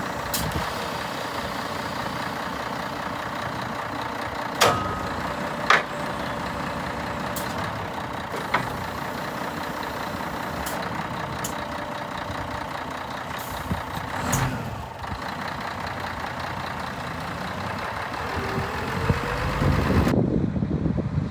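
Scania R124 420 truck's straight-six diesel engine running steadily, with a few sharp clicks and knocks over it. Near the end it grows louder, with a short rise in pitch.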